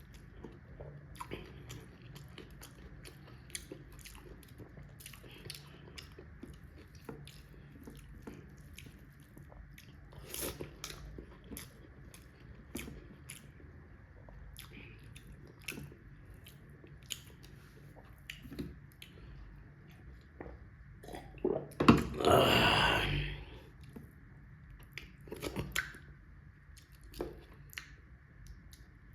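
Close-miked chewing: a person eating rice and fish curry, with many small wet mouth clicks and smacks. About three-quarters of the way through there is one louder noisy burst lasting over a second.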